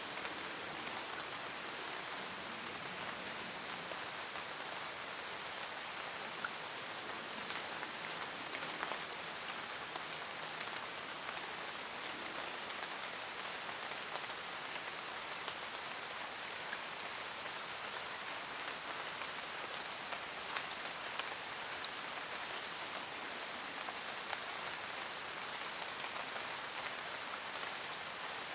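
Steady rain falling in a forest, a continuous hiss of rainfall with many separate drops pattering on leaves.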